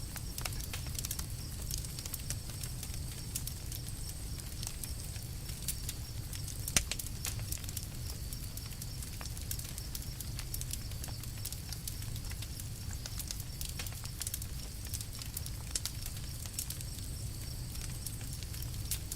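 Campfire crackling with frequent small pops and one sharper, louder pop about seven seconds in, over a steady low rumble.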